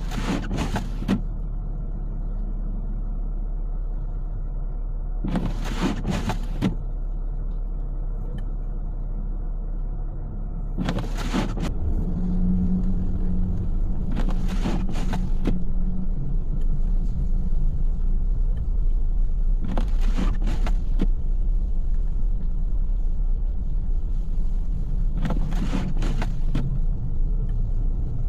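Car driving on a snowy road, heard from inside: a steady low rumble of engine and tyres that grows louder about ten seconds in. A brief swish cuts through it roughly every five seconds.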